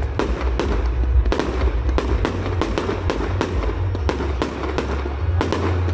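Aerial fireworks bursting in quick succession, about three bangs a second, with a brief lull about four and a half seconds in.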